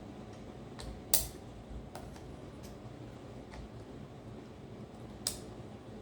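Scattered light clicks and taps from a guided knife-sharpening system being handled, with two sharper clicks, one about a second in and one near the end.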